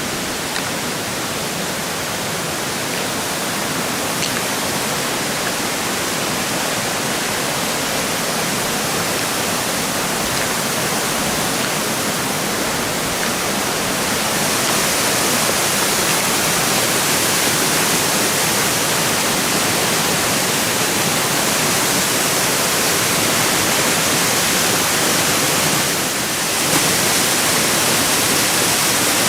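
Water rushing over the lip of a waterfall: a loud, steady roar that grows a little louder about halfway through and dips briefly near the end.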